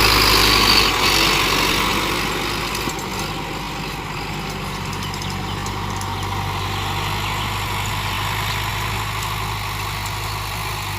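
Tractor engine running steadily, a little louder in the first second or two, then settling to an even drone.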